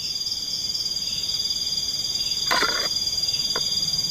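Tropical forest insect chorus: a steady, high-pitched, rapidly pulsing trill. A short burst of another sound comes about two and a half seconds in.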